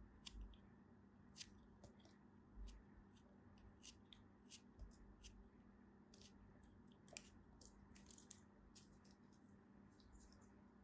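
Faint, irregular small clicks and crackles of something being handled close to the microphone, over a low steady hum.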